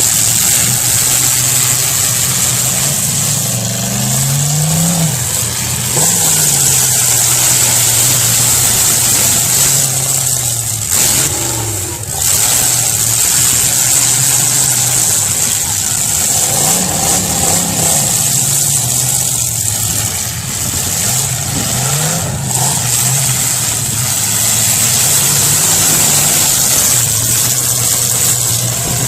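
Demolition derby car engines revving up and falling back again and again, over a loud steady din, with a sharp knock about six seconds in.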